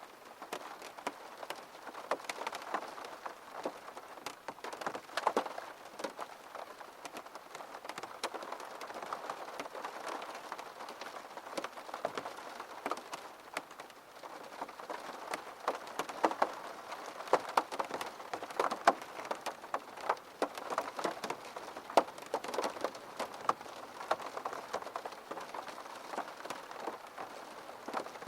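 Steady rain falling on a surface, with many close individual drops tapping sharply over the even patter.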